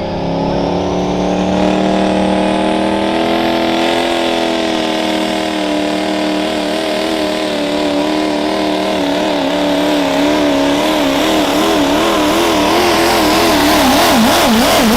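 Diesel pickup truck engine running at high revs under heavy load while pulling a sled, its pitch rising slightly at first and then wobbling up and down through the second half as the truck bounces down the track.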